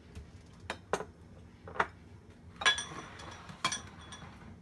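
Tableware clinking and knocking as food is served: about five separate knocks of dishes and utensils, the two loudest ones, near the middle and toward the end, ringing briefly.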